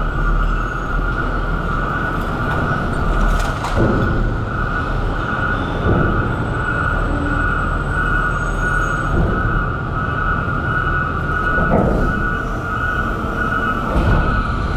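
Garbage truck running with a steady high-pitched whine over a low engine rumble, with a few knocks and clunks spaced a couple of seconds apart.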